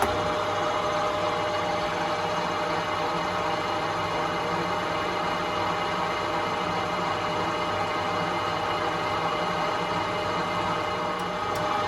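Emco Compact 5 lathe running steadily, its motor giving a constant whine and hum as the cutter faces a cast iron Mini cylinder head under power cross feed. A few faint ticks come in near the end.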